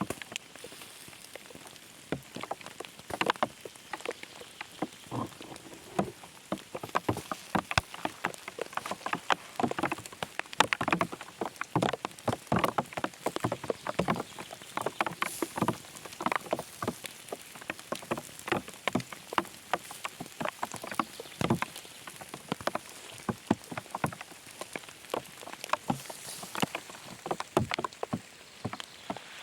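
Rain falling in the forest, with many separate drops tapping and pattering irregularly, several a second.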